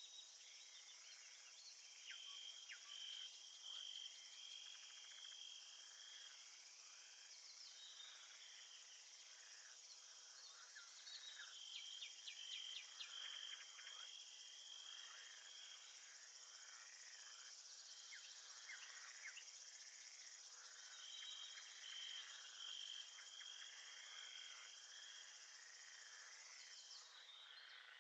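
Faint nature-sounds recording of an insect chorus: a steady high hiss of insects, with a cricket-like pulsed trill coming in three bouts and many short chirps scattered beneath it.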